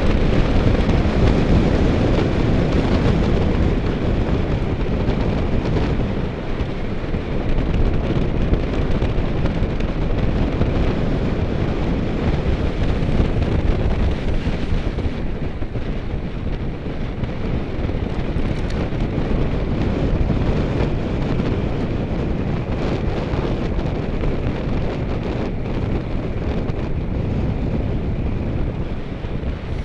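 Steady wind rushing over the microphone of a camera carried on a bicycle at speed, a loud, heavy rumble.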